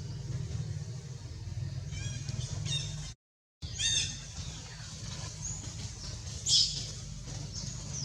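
Short, high-pitched chirping and squealing animal calls in quick runs, the loudest a brief squeal about six and a half seconds in, over a steady low hum. The sound cuts out completely for half a second just after the three-second mark.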